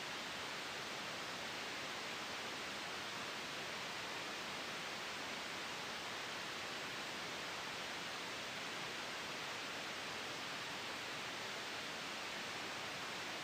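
Steady white noise for sleep masking: an even hiss that holds at one level throughout, with no gusts or changes.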